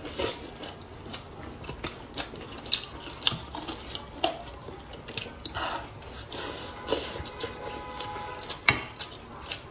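Close-miked chewing of pork steamed in rice flour: wet smacking and clicking mouth sounds at an irregular pace, with a sharper smack near the end.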